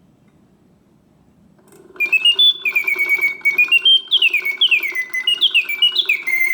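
Vintage Karl Griesbaum mechanical singing bird, its clockwork and bellows driving a whistle. After about two seconds of faint running of the works, it starts singing: rapid whistled notes that step upward and then swoop down again and again, with the ticking of the mechanism underneath. The song ends the pause cycle.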